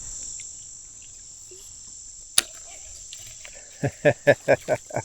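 Insects shrill steadily in a high band throughout. There is one sharp click about halfway through. Near the end a person gives a short rapid laugh of about six evenly spaced bursts.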